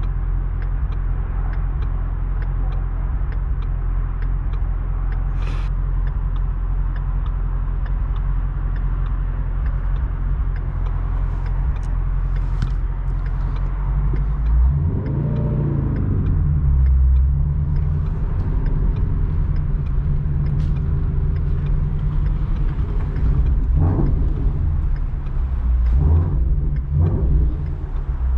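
A car engine running with a steady low drone, revved up and back down about halfway through and twice more near the end.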